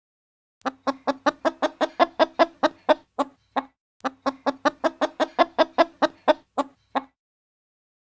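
Chicken clucking: a run of about a dozen quick clucks lasting about three seconds, then the same run again.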